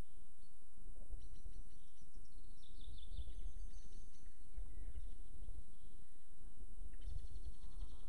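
Songbirds chirping and trilling in short high phrases, about a second in, around three to four seconds in, and again near the end, over a steady low rumble.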